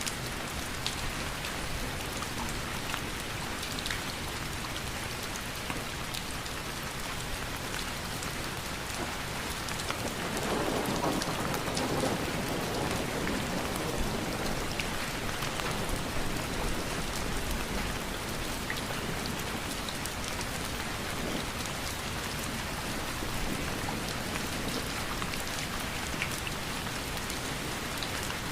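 Steady rain falling, with scattered individual drops ticking through it. It swells louder for a few seconds about ten seconds in.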